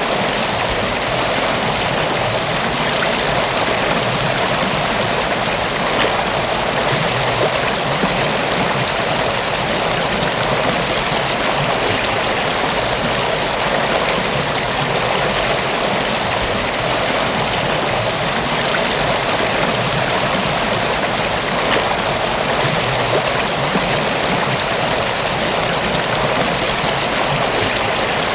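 Mountain waterfall: water falling and rushing in a steady, even torrent, with small splashes scattered through it.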